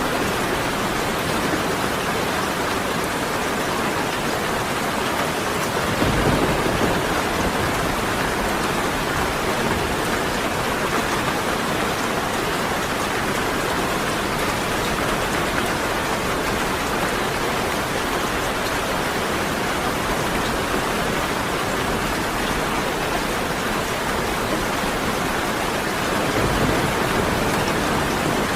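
Steady heavy rain pouring, with a short low rumble of thunder about six seconds in and another near the end.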